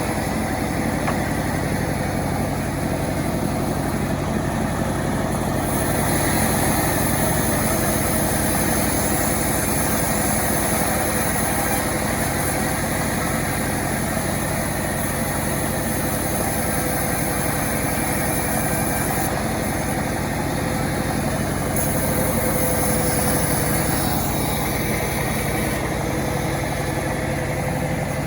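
Engine of a self-assembled chainsaw running steadily, its note shifting a few times.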